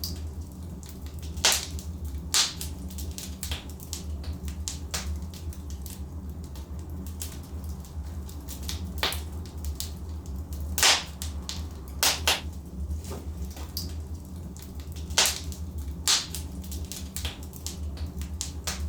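Wood fire burning in a fireplace: a steady low rumble with irregular sharp crackles and pops from the burning logs, the loudest about a second and a half in, near the middle and about two-thirds through.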